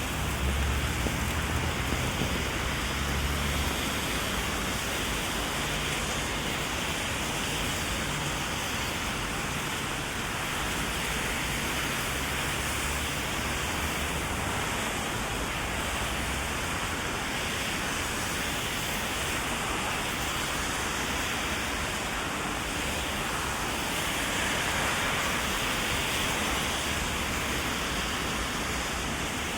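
Heavy rain falling steadily: a dense, even hiss, with a low rumble in the first few seconds.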